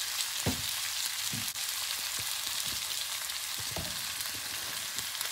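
Sliced vegetables (snow peas, banana and pear) frying in a pan, a steady sizzle with a few dull knocks.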